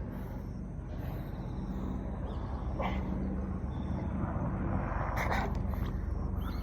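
Outdoor background noise: a steady low rumble with a couple of faint knocks.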